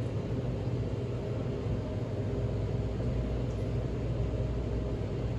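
Steady low rumble with an even hiss, like the cabin noise of a moving car.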